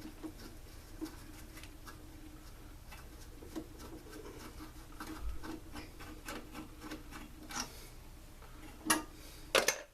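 Small scattered clicks and rubbing of hand tools and parts as the carburetor and air box of a backpack blower are being taken apart, over a faint steady hum, with a few sharper clicks near the end.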